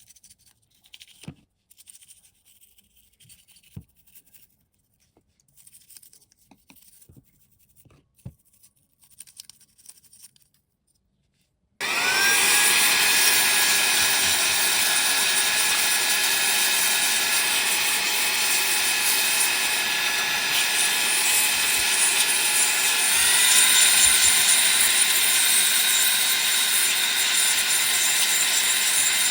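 Faint scraping and light taps of small hand work, then a small electric power tool starts up with a rising whine as it spins up and runs steadily and loudly. About eleven seconds after starting, its pitch steps up.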